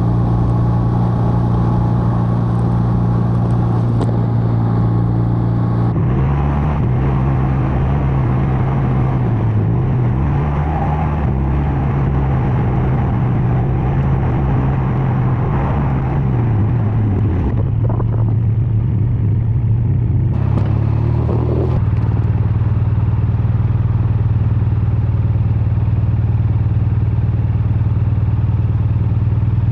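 BMW R12 nineT's boxer-twin engine and exhaust on the move. The engine note holds steady, then wavers up and down with the throttle in the middle stretch. About 21 seconds in it dips and sweeps back up, then settles into a steady, slightly louder cruise.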